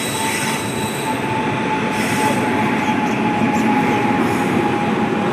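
Kanyakumari Express passenger train running on the rails: a loud, steady rumble of wheels and carriages, with a thin, high wheel squeal held throughout that drifts slightly lower in pitch.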